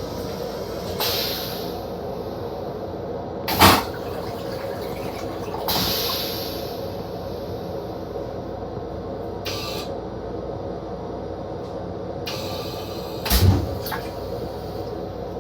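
Inside a Metro-North M7 electric railcar's restroom: the car's steady running hum. Two sharp knocks fall over it, about a quarter of the way in and near the end, and two short hissing rushes come about a second and about six seconds in.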